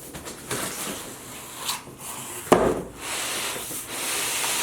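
A cardboard shipping box being opened by hand: cardboard rustling and scraping, a sharp thump about two and a half seconds in, then a long, steady scraping hiss near the end.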